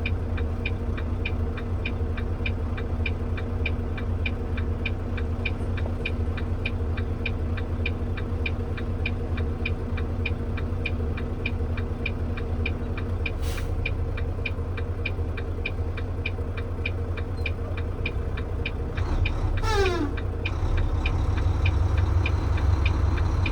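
Inside a truck cab: the diesel engine rumbles steadily under a turn signal ticking quickly and evenly, about three ticks a second. Near the end there is a brief falling whine, and the engine grows louder.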